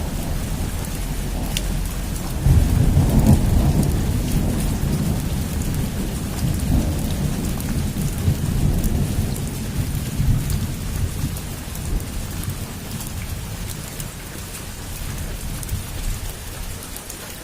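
Heavy rain falling on a roof, a steady hiss with fine drop ticks. A long low rumble of thunder swells about two and a half seconds in, then slowly fades away.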